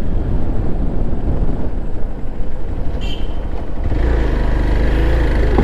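Motorcycle running on the road with wind rushing over the microphone; about four seconds in, a steady low engine hum comes up and holds.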